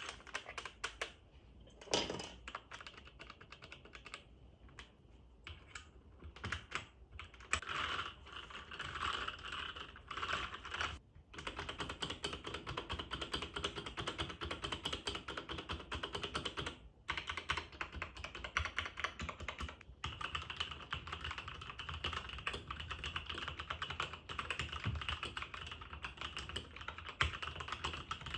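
Typing on a Jiyoulang K96 keyboard: scattered single keystrokes at first, then fast, continuous typing from about twelve seconds in, with a few short pauses.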